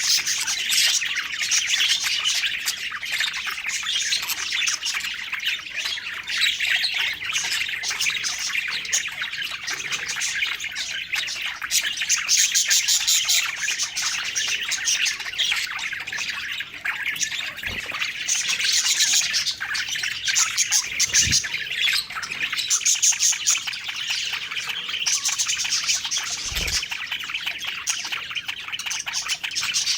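A group of budgerigars chirping and warbling in continuous busy chatter, with a few faint low thumps in between.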